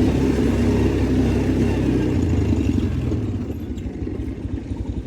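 Motor vehicle engine running, loud at first, then easing off about three seconds in to a lower, rhythmic putter.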